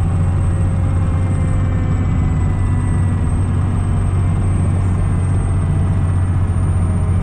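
Fire truck's diesel engine running steadily, a loud, even low drone heard inside the cab.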